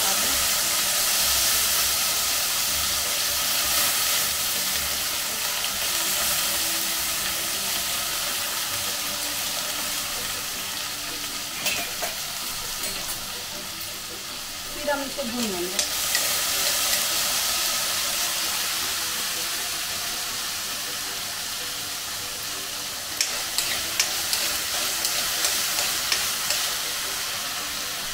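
Diced potatoes sizzling in hot ghee in a black iron kadai, freshly put in the pan. The sizzle slowly eases, then swells again about halfway through. Near the end a metal spoon clicks against the pan a few times as the potatoes are stirred.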